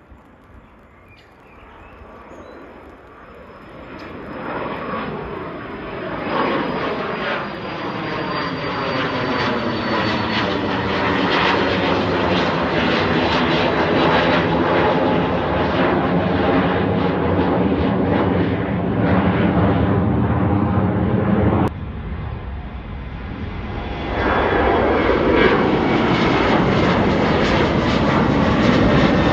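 Departing airliner's engines at takeoff power passing by. The sound swells over several seconds to a loud, steady rush. It breaks off abruptly about three-quarters of the way through, then grows loud again.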